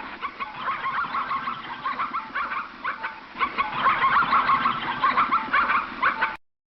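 A flock of poultry calling over one another in a dense, continuous chorus of short calls that cuts off suddenly near the end.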